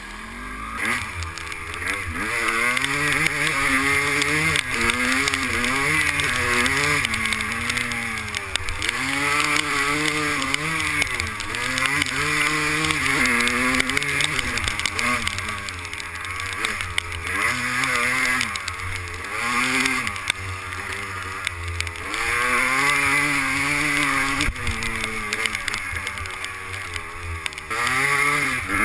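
Two-stroke 250cc dirt bike engine being ridden hard, revving up and dropping back over and over as the throttle is worked on and off.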